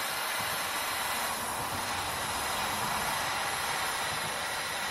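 Propane torch burning with a steady hiss, heating the spine of a hardened carbon-steel knife to draw its temper.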